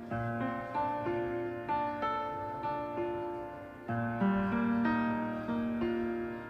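Soft instrumental piano music, notes struck a few times a second and left to ring.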